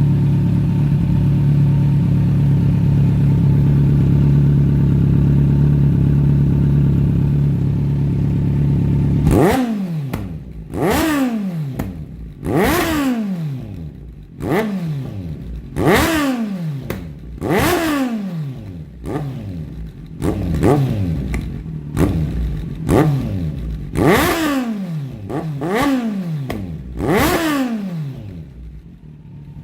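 Kawasaki Z1000 inline-four motorcycle engine idling steadily. About nine seconds in, a run of a dozen or so quick throttle blips begins, each rev jumping up and falling back, roughly every second and a half, before it settles again near the end.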